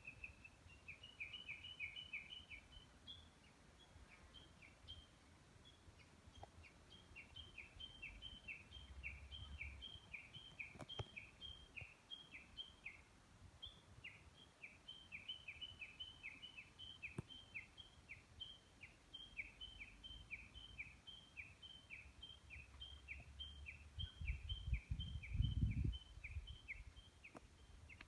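Japanese bush warbler (uguisu) calling a long run of quick, repeated two-note phrases, a high note then a lower falling one, with a brief pause about halfway through. This is its 'ke-kyo ke-kyo' valley-crossing series. A low rumble of wind on the microphone swells near the end.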